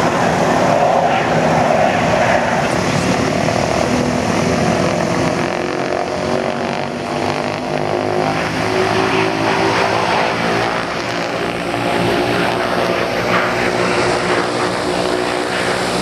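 Propeller airplane engine droning steadily.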